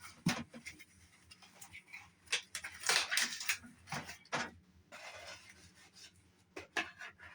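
Irregular scraping, crackling and knocking of a cardboard shipping box being cut and pried open with a knife, the busiest stretch in the middle.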